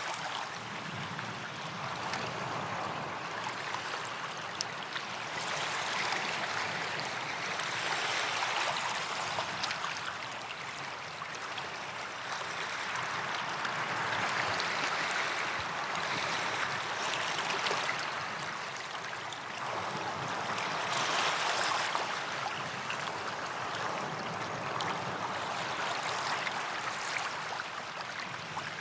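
Small waves washing onto a sandy beach, the surf swelling and easing every few seconds.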